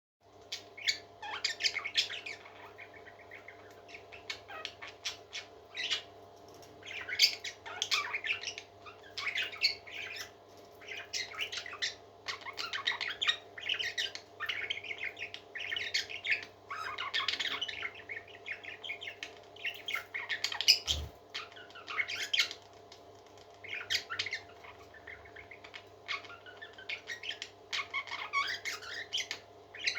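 Parrots squawking and chirping in short, harsh calls about once a second, over a steady low hum.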